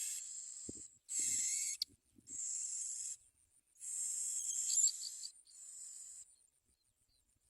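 Bar-winged prinia nestlings giving high, hissing begging calls in five bursts of about a second each, the last shorter and fainter, with a few faint low thumps in the first two seconds.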